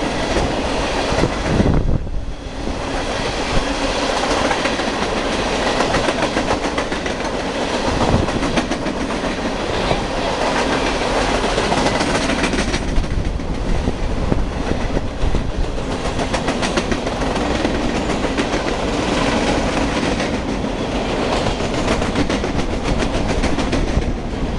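Coal train cars rolling past, a steady rumble of steel wheels on rail with a continuous run of clicks as the wheels cross rail joints.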